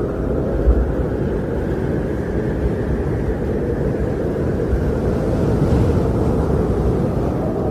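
Strong wind blowing steadily, a deep low rush with gusts swelling and easing.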